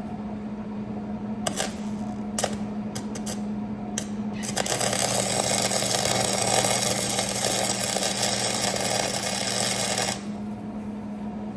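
A few sharp metal clinks as the welder's ground clamp is moved, then about five seconds of electric welding arc crackle laying a bead on the steel frame, cutting off abruptly. A steady low hum runs underneath.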